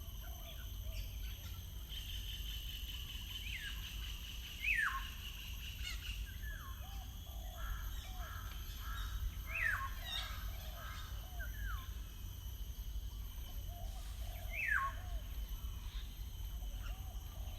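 Several wild birds calling and singing. A loud call sweeps sharply downward three times, about five seconds apart, among shorter chirps and low repeated notes, over a steady low background rumble.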